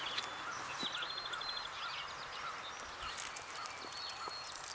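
Faint bird calls: a soft short call repeating about twice a second, with a quick high trill about a second in.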